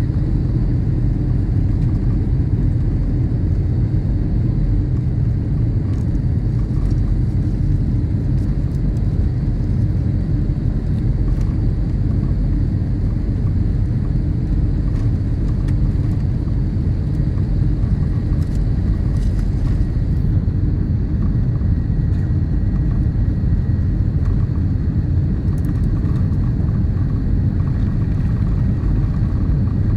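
Steady low rumble of a vehicle running, with a faint high whine over it.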